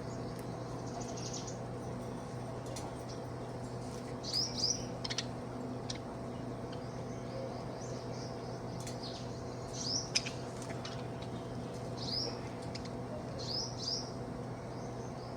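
Budgerigar giving short, high chirps in small clusters every few seconds, over a steady low hum.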